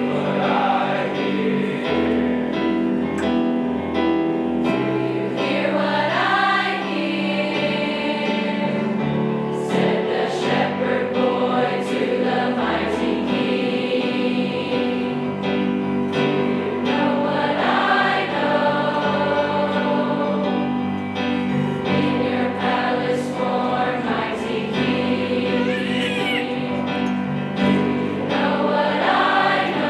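High school choir singing a Christmas song in parts, with low held accompaniment notes underneath.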